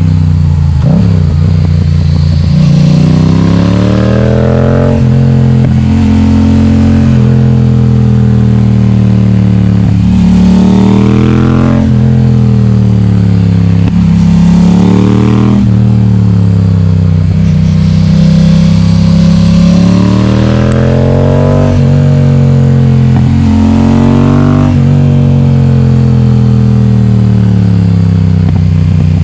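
Yamaha XSR700's parallel-twin engine running loud through an Akrapovic exhaust with the baffle removed. It pulls up through the revs several times, each rise in pitch ending in a sudden drop.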